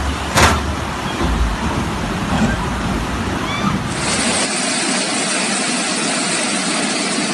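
Loud rushing noise of floodwater, with a sharp knock about half a second in. About four seconds in it switches abruptly to a brighter, steady hiss.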